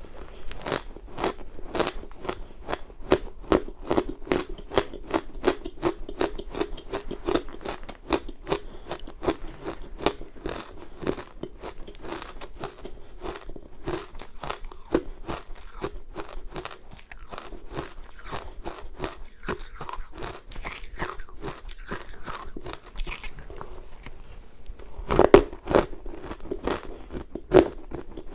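Close-miked crunching and chewing of ice coated in matcha powder: a fast, dense run of crisp crunches, with a few louder bites near the end.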